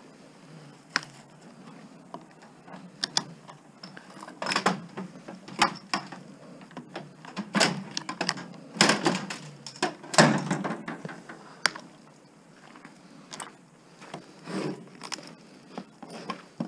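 Irregular metal knocks, clanks and rattles from a rusty power supply being pulled apart by hand with tools, the loudest couple of knocks about nine and ten seconds in.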